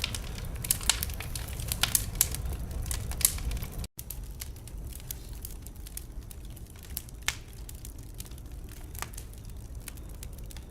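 Wood fire crackling and popping, with sharp irregular snaps over a low steady rumble. About four seconds in the sound drops out for a split second; after that the pops come less often and a little quieter.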